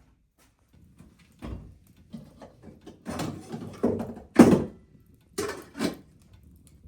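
A series of about seven knocks and thuds, the loudest about halfway through, as of hard objects being handled and set down.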